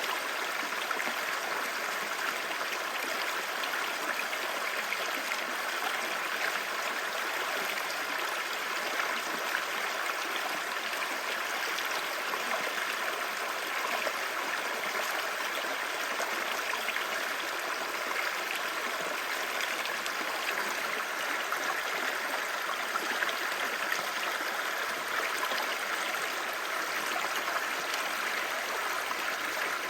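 Clear mountain stream babbling over stones, a steady rush of running water.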